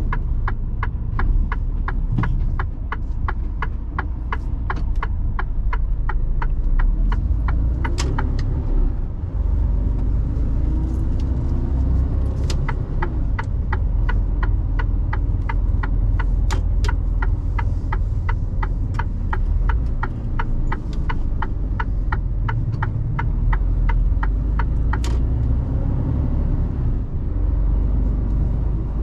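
Turn-signal indicator ticking about three times a second over the low rumble of a Mercedes Actros truck's engine and road noise inside the cab. The ticking stops about eight seconds in, starts again around twelve seconds, and stops again near twenty-five seconds.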